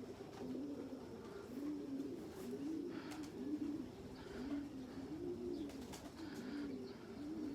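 Several young racing pigeons cooing over one another, a continuous chorus of low coos that rise and fall in pitch.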